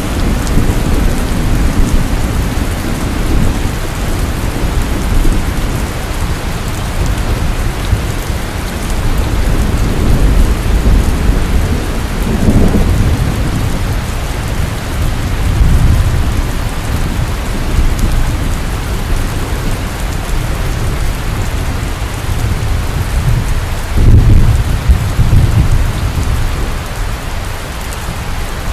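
Heavy rain falling steadily, with low rolling thunder swelling up twice, the louder roll about three-quarters of the way through.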